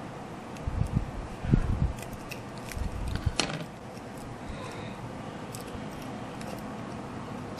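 Handling noise from hand model-building work: a few low bumps and thuds between about one and three seconds in, with light clicks and one sharp click or snap about three and a half seconds in, then steady room tone.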